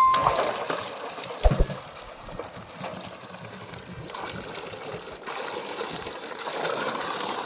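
Liquid splashing and trickling, a steady watery noise, with a short knock about one and a half seconds in.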